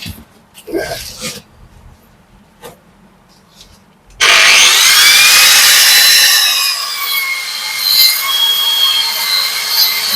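Angle grinder with a cutting disc starts about four seconds in, its whine rising as the disc spins up. It then runs loud and steady, wavering as it cuts into brickwork.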